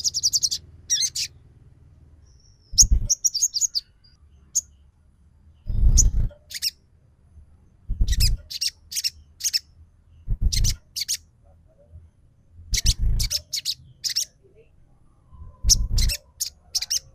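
Crimson sunbird (sogon) singing its rapid 'trotol' twitter in short bursts of quick, high chirps about every two to three seconds, with a low thump under each burst; a lure recording used to set a caged sunbird singing.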